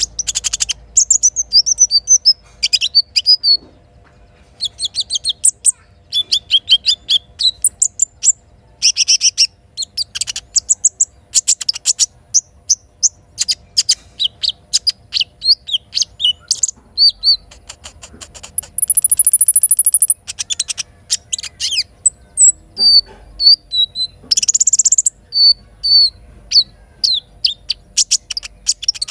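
A sogok ontong (little spiderhunter) singing: dense runs of rapid high chirps, trills and short sharp notes, with one long thin high whistle about two-thirds of the way in.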